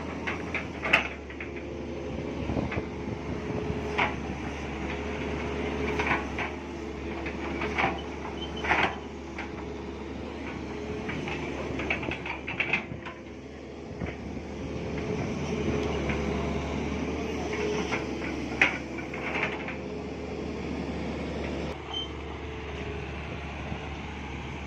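Excavator working: its diesel engine running steadily, with repeated sharp metallic clanks and knocks from the digging, the loudest about a second in and again late on.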